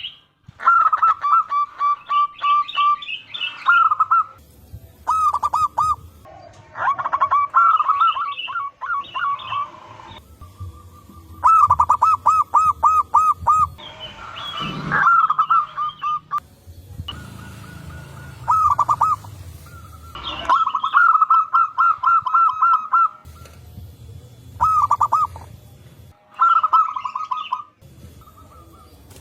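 Zebra doves (perkutut) cooing in fast runs of short, evenly repeated notes at one pitch. The runs come in bursts of a second or two with gaps between them, as several birds answer each other, and higher twittering chirps sound in between. A brief rushing noise comes about halfway.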